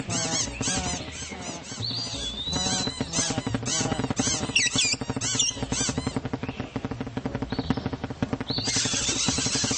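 Small birds chirping: a rapid run of short rising-and-falling calls, several a second, over a low buzzing rhythm.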